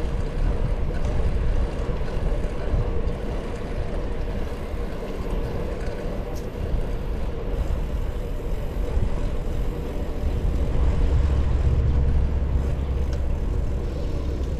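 Wind buffeting the microphone of a camera on a moving bicycle, a steady low rumble with a faint hum, growing stronger for a few seconds past the middle.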